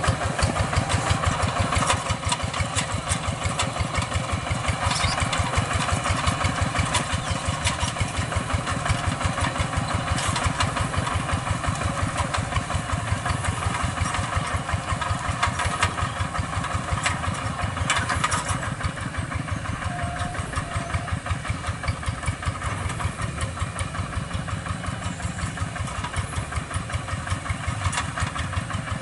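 Two-wheel hand tractor's single-cylinder diesel engine running with a steady, fast chugging beat and metallic rattle over it. The higher rattle eases off about two-thirds of the way through.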